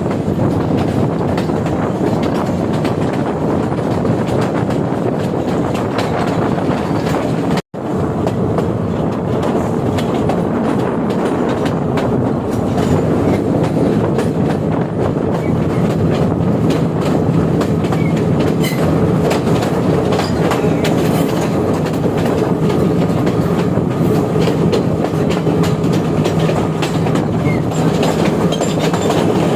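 Sri Lanka Railways Class S14A train running along the line, its wheels clacking over the rail joints over a steady rumble. The sound cuts out for a moment about eight seconds in, and a low steady hum joins about halfway through.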